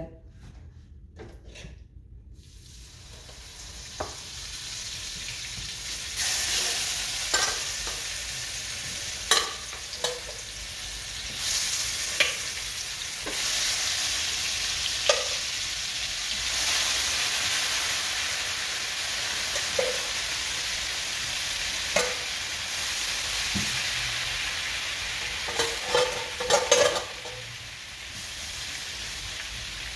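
Curry-seasoned chicken wings, fried without flour, sizzling in hot oil in a frying pan. The sizzle starts faint about two seconds in and is full from about six seconds. Scattered sharp clicks of metal utensils against the pan run through it.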